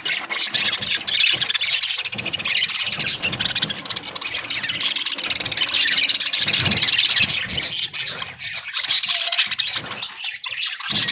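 A flock of budgerigars chattering and chirping together, a dense, steady, high-pitched twittering made of many overlapping rapid chirps.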